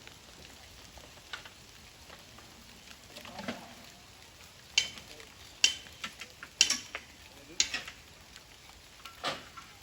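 Steady hiss of rain, with five sharp knocks in the second half, about a second apart.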